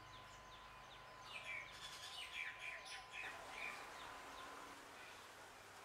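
Faint birds chirping: a quick run of short repeated chirps at the start, then a louder burst of chirping calls for about two seconds in the middle. A thin steady tone and a low hum sit underneath.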